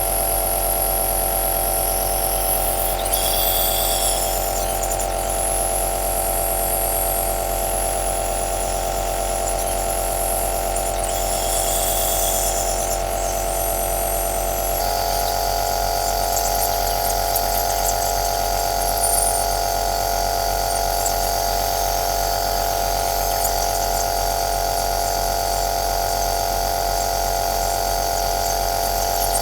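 Compressor nebulizer (aerosol machine) running steadily: a motor hum with a hiss of air on top. About halfway through, the hum's tone and the hiss shift, as if the machine's pitch changes slightly.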